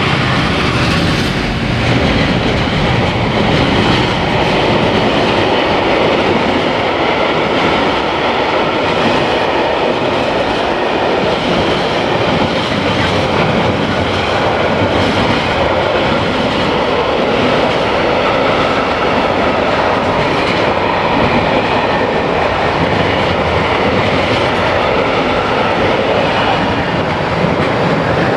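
Freight train wagons rolling past at speed: a steady, loud rumble and rattle of steel wheels on the rails. A locomotive's engine note fades out in the first second or two.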